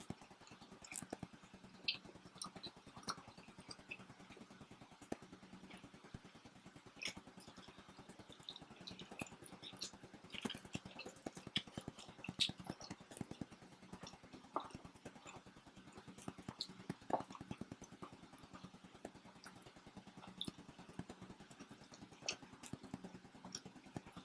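Faint eating sounds of people eating pizza: scattered small chewing and mouth clicks with occasional light taps, over a faint steady hum.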